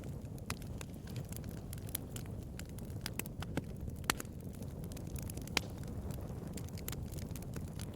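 Bonfire burning: a steady low rumble of flames under scattered sharp crackles and pops of burning wood. A few pops stand out, one about four seconds in and another about a second and a half later.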